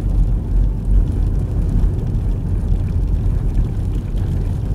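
Steady low rumble of a car's tyres and engine on a snow-covered road, heard from inside the cabin while driving.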